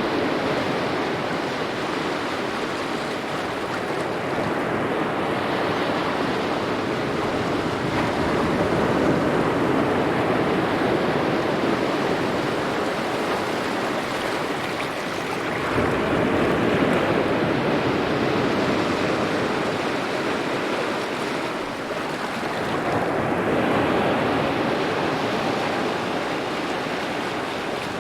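Small waves lapping at the shore, a continuous wash of water that swells and eases every several seconds.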